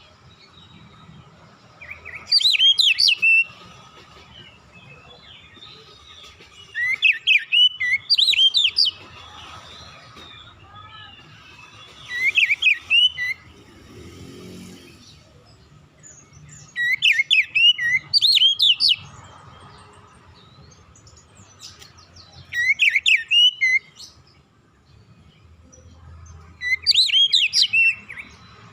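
Oriental magpie-robin (kacer) in relaxed song: short phrases of rapid, high whistled notes, repeated about every four to five seconds, with a faint steady hum underneath.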